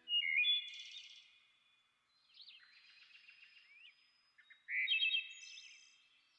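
Birds singing: a loud warbling phrase right at the start and another about three-quarters of the way through, with softer chirps and whistled glides between.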